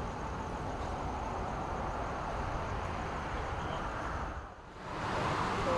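Steady city traffic noise with no speech. It drops away briefly about four and a half seconds in, then returns a little louder.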